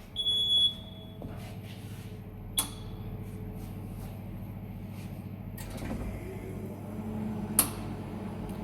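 Air-conditioning recharge station gives a short high beep, then its pump runs with a steady hum, broken by two sharp clicks. This is the stage where the machine empties its service hoses after the low- and high-pressure couplers have been disconnected.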